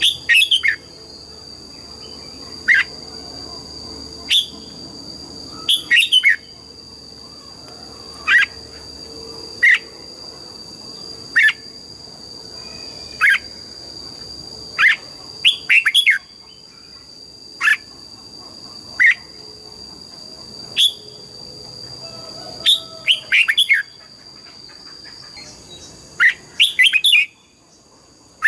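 Red-whiskered bulbul singing: short, falling notes every second or two, some in quick groups of two to four, over a steady high-pitched whine.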